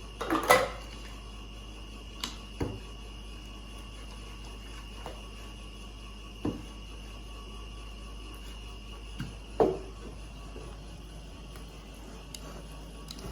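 A spoon mixing sour cream and canned green chilies in a bowl: mostly quiet stirring, with a few scattered clacks of the spoon against the bowl, the loudest just after the start and about nine and a half seconds in, over a steady faint background hum.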